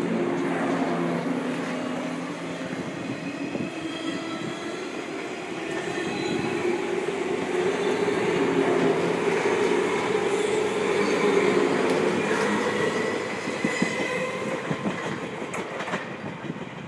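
JR East 185 series electric train pulling out, its resistance-controlled MT54 traction motors humming and rising in pitch as it gathers speed, with wheels clicking over the rail joints. It grows louder, then fades in the last few seconds as the train draws away.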